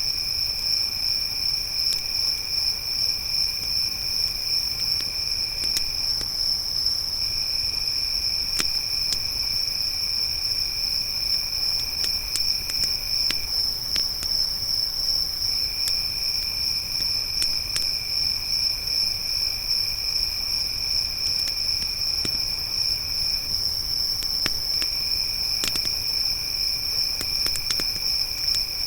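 Crickets chirping: a steady high pulsing trill, with a lower second trill that stops and starts again three times, over a campfire's occasional sharp crackles and pops.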